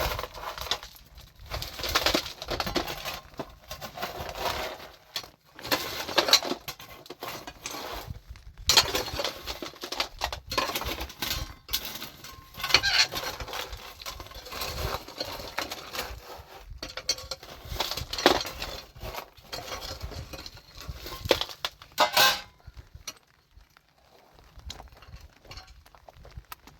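Irregular hard knocks and clinks of hard objects striking one another, stopping about 22 seconds in.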